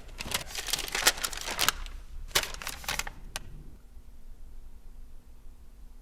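A quick, irregular run of sharp clicks and knocks for about three and a half seconds, then quiet room tone with a faint steady hum.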